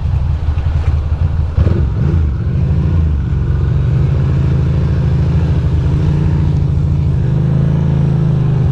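Ducati Monster's L-twin engine running under way, heard from the rider's position, with a brief rise and fall in pitch near the end.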